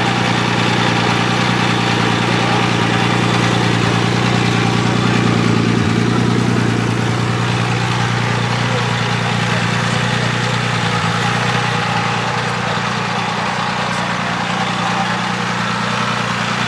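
A 1928 Amilcar C6 racer's 1100 cc six-cylinder engine idling steadily at an even pitch, without revving.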